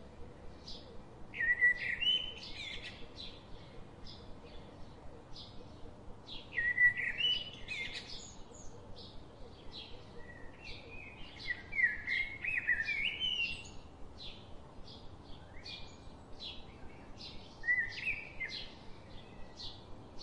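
Birds singing: a warbling song phrase of a second or two returns four times, about every five seconds, over a steady scatter of short, high chirps.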